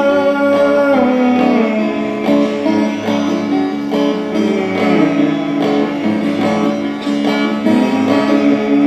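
Instrumental break of a live band's song, with plucked guitar strings carrying the melody and no singing.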